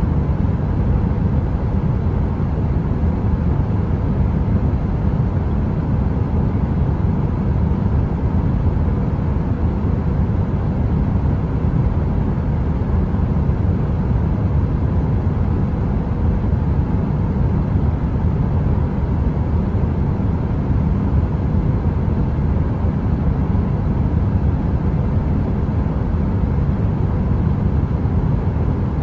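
Heater running with a steady, deep whooshing noise and a faint constant hum, unchanging throughout.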